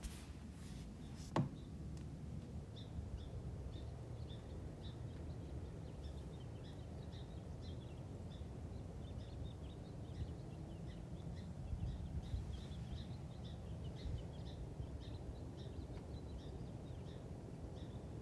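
Small birds chirping, many short high notes repeating throughout over a steady low rumble of background noise, with one sharp click about a second and a half in.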